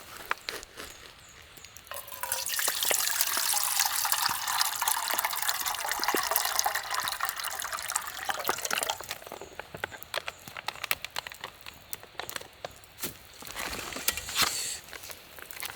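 Water being poured for about seven seconds, starting about two seconds in, its pitch dropping as the pour goes on. Short clicks and knocks of handling come before and after it.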